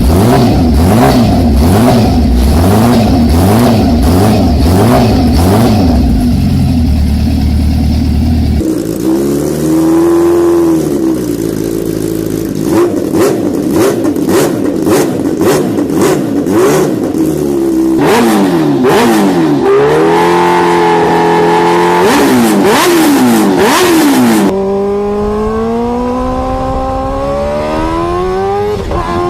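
High-performance motorcycle engines revving and accelerating in a run of separate clips, the pitch swinging up and down with each rev. Near the end comes a long, steady rise in pitch as one bike accelerates.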